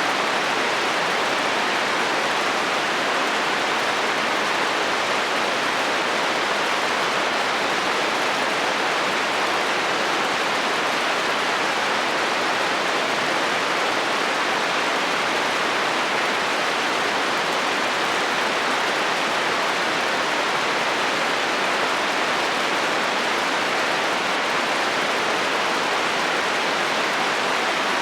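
Heavy rain falling steadily on a metal roof, a dense even hiss of drops without change or thunder.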